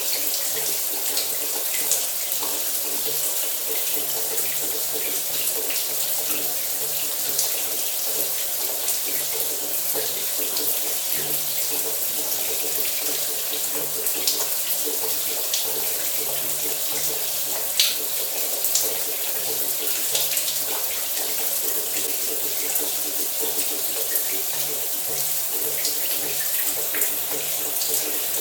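Shower water running steadily, a dense even hiss of spray with scattered small drips and splashes.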